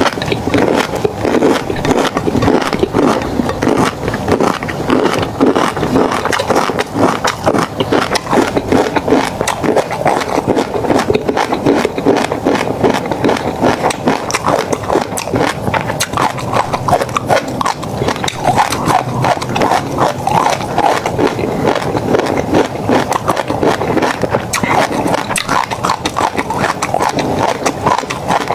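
Close-miked chewing of tobiko (flying fish roe), a dense, unbroken run of quick, irregular clicks and pops as the little eggs burst in the mouth.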